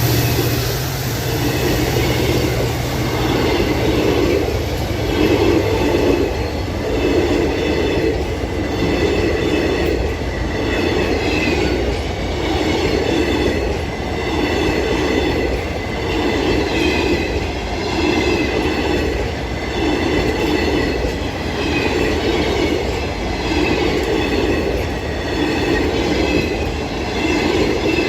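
Passenger coaches of an express train rolling past, their wheels beating over the rail joints in a regular rhythm of roughly one beat a second, with high wheel squeal on the rails. A low diesel drone fades out in the first few seconds.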